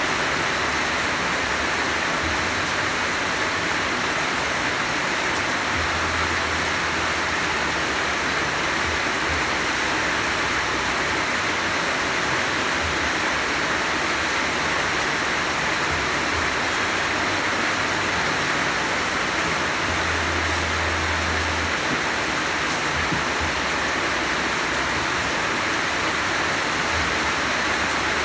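Heavy rain pouring steadily: a dense, even hiss with no letup.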